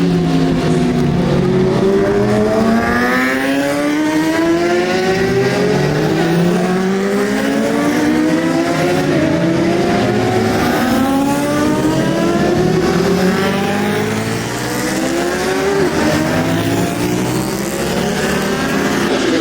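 Racing superbike engines at high revs, their pitch climbing again and again and dropping back at each upshift as they accelerate through the gears.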